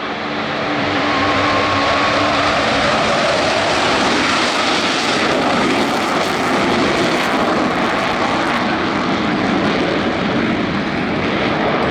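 Blue Angels F/A-18 Super Hornet jets flying overhead: a loud, steady jet roar that swells and grows brighter midway through before easing again.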